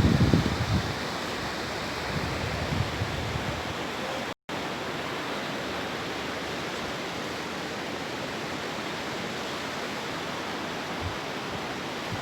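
Steady rush of sea surf on a beach, an even hiss, broken by a split-second dropout about four seconds in.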